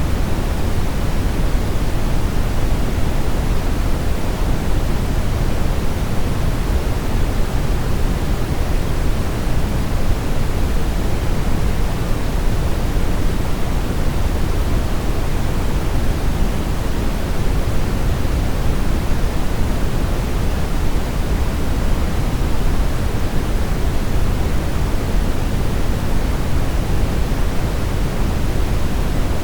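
Steady brown noise: an even, unchanging hiss weighted heavily toward the low end, a deep rumble with little treble.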